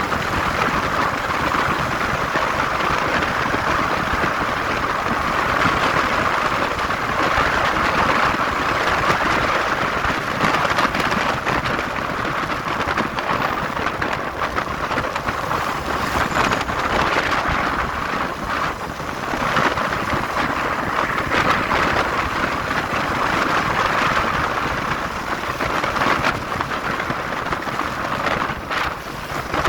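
Steady rush of wind and road noise from a motorcycle ride, swelling and easing slightly.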